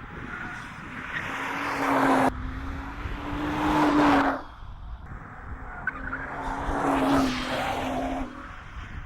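Nissan GT-R R35's 3.8-litre twin-turbo V6 held at steady high revs while its tyres squeal through a drift. It comes in two long swells, and each ends with a sudden drop.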